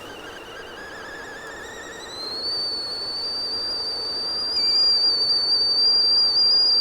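Singing tea kettle coming to a full boil: a wavering, lower whistle that jumps about two seconds in to a steady, higher whistle. The whistle then grows louder and edges slowly up in pitch toward full pitch.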